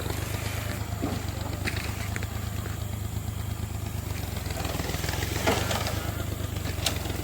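Tractor engine running steadily, a low even hum with a few faint clicks over it.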